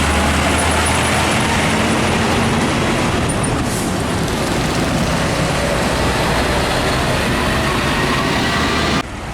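Heavy truck passing close by on a highway, a steady loud mix of diesel engine and tyre noise. It cuts off abruptly about nine seconds in, leaving quieter traffic noise.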